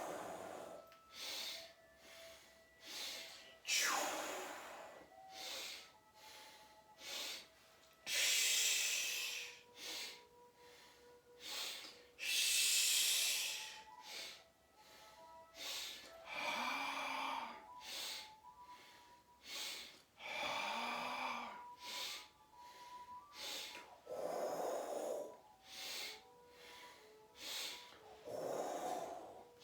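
A person doing qigong healing-sound breathing: quick sniffing in-breaths between long voiced exhalations. First come two long hissing out-breaths, then two voiced out-breaths, then two lower breathy ones. Faint steady tones of background music run underneath.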